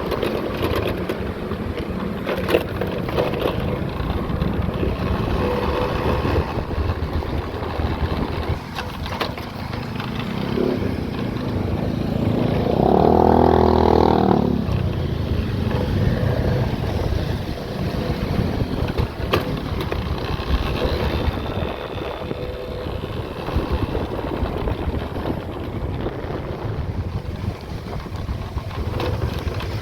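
Road travel noise: a vehicle engine running with road and wind noise on the microphone. A louder pitched sound rises over it for about two seconds midway.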